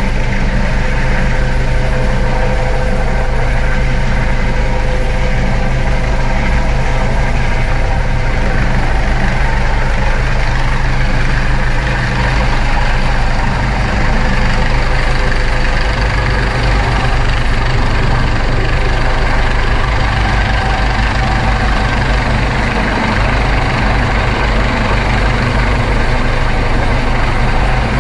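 Coast Guard helicopter hovering close by, its rotor and turbine noise a loud, steady din with a fast, even low beat.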